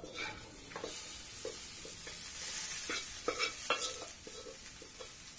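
Boiled elephant-foot yam pieces tipped into a hot pan of fried onions and spices, sizzling, while a spatula scrapes and knocks them out of the other pan in a few short strokes.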